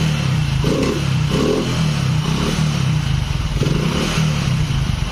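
Hero Splendor Plus single-cylinder four-stroke engine running just after being started, its air-filter assembly opened up and refitted. It holds a steady idle with a few short throttle blips.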